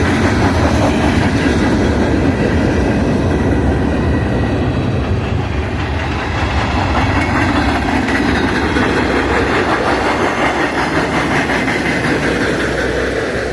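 Union Pacific freight train's cars rolling past, a steady loud rumble with the clickety-clack of wheels over the rail joints.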